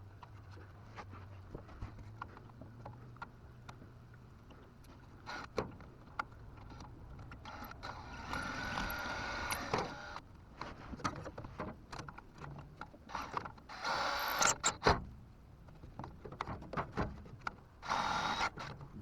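Hand work on a truck's starter: scattered clicks and knocks of tools on metal, with a few longer scraping stretches about halfway through and near the end.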